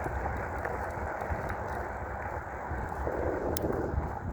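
Steady rush of wind and road noise from a dual-motor electric bike being ridden, with one sharp click about three and a half seconds in.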